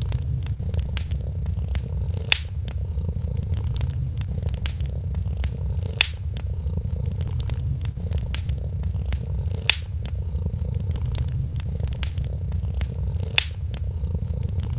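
A cat purring steadily with a low, continuous rumble, over the crackling of a wood fire. Scattered small clicks run throughout, and four louder snaps come at even spacing, roughly every three to four seconds.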